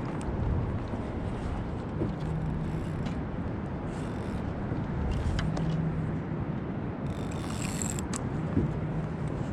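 Steady low rumble of wind and water on an ocean kayak, with a few light clicks, a short low hum recurring about every three seconds, and a brief hiss about seven seconds in.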